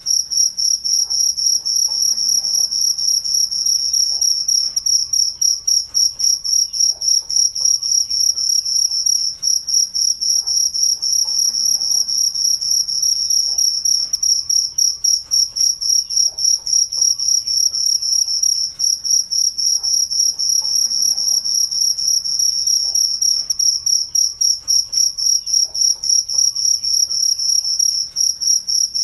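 Crickets chirping in a steady, rapid, high-pitched pulsing trill that never lets up.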